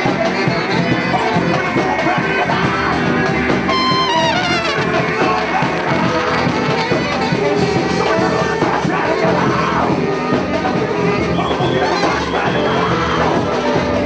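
A live Latin band playing a groove: a percussion section drives a steady rhythm while horns play held notes over it.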